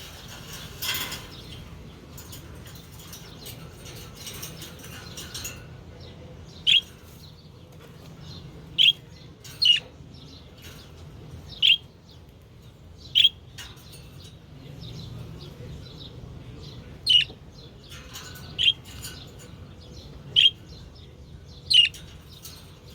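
Pet budgerigars at their bath: a rustle of wing-flapping in the first few seconds, then about nine short high chirps, one every second or two.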